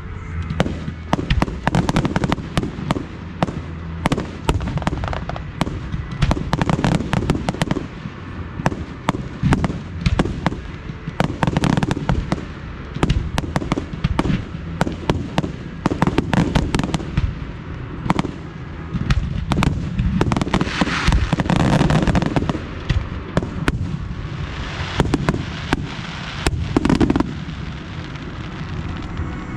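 Fireworks display: a rapid, continuous barrage of bangs and crackling from aerial shells and cakes, with bursts of denser crackle about two-thirds of the way through and again near the end.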